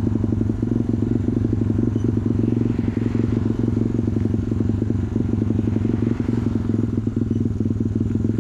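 Off-road motorcycle engine running steadily at a low, even pitch while riding a trail, its rapid firing pulses heard close up.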